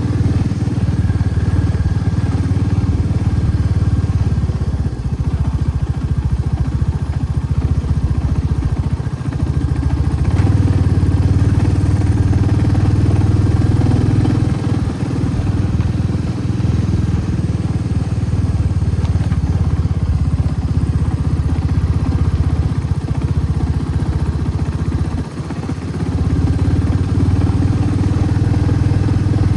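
Motorcycle engine running steadily while riding, a low rumble with a few brief dips in level, the deepest about 25 seconds in.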